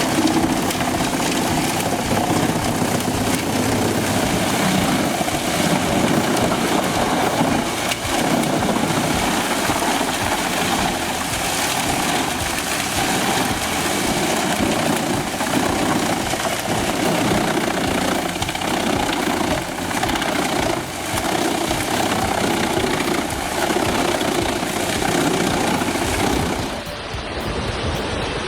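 Drum wood chipper running under load, its engine and chipping noise dense and steady with an uneven rise and fall as material is fed through. The sound changes abruptly near the end.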